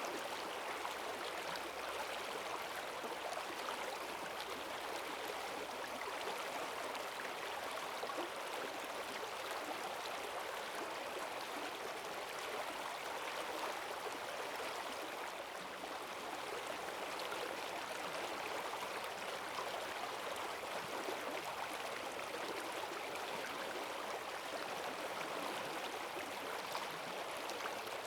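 Forest stream swollen with rainwater, rushing steadily over its bed with a strong current.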